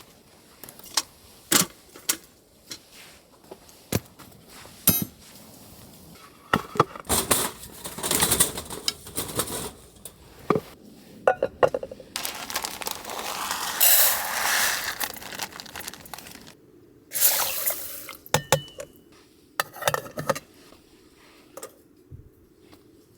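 Camping gear being handled by hand: scattered clinks and knocks, with several longer bursts of rustling.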